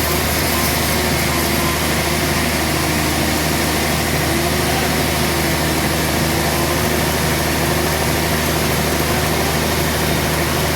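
Sawmill machinery running steadily: a constant engine-like hum with a dense hiss above it, no strikes or changes in pace.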